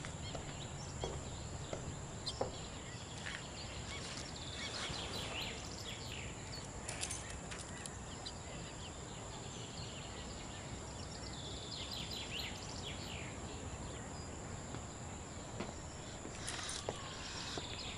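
Small birds chirping in short, scattered calls over a steady faint hiss.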